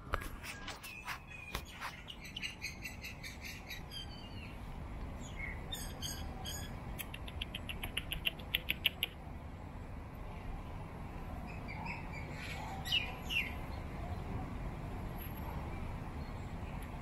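Small birds chirping: scattered short high calls, with a quick run of rapid chirps around the middle and another brief cluster later, over a steady low rumble.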